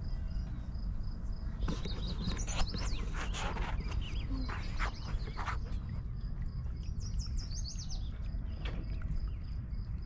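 Small birds calling in short chirps and quick sweeping notes, in clusters through the first half and again a little past the middle. Underneath runs a steady low rumble and a faint, rapidly pulsing high note.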